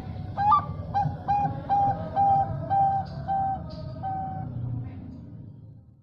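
Bangkok-line zebra dove (perkutut) singing: a sharp rising opening note, the shrill 'front voice', then a run of about seven short, evenly spaced coos that stop after about four seconds, over a steady low rumble.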